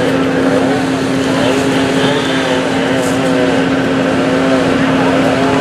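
Vehicle engine and road noise heard from inside a car while driving, with a steady hum running throughout.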